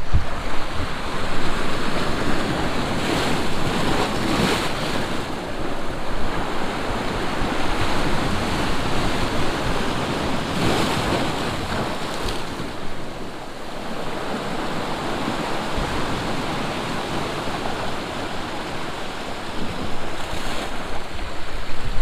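Sea surf washing in over a rocky shore, a continuous rush of water that swells louder about three to five seconds in and again around ten seconds, with wind buffeting the microphone.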